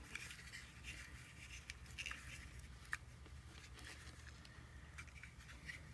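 Faint scattered clicks and rustling of the headphones and their packaging being handled, over a low steady hum.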